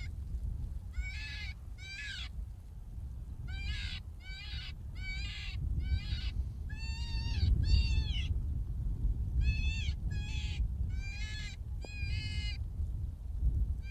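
A predator call sounding a series of short, high, wavering cries, mostly in pairs, to lure predators in. Low wind rumble on the microphone underneath.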